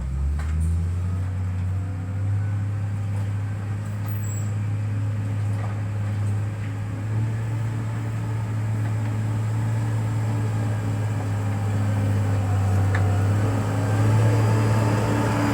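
Diesel engine of heavy road-construction equipment running steadily under work, a low droning hum that grows a little louder near the end.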